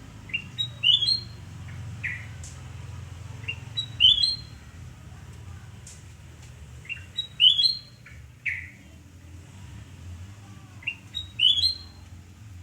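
Kutilang emas (ruby-throated bulbul) singing: a short phrase of quick rising whistled notes repeated four times, about every three and a half seconds, with a single slurred note between some phrases.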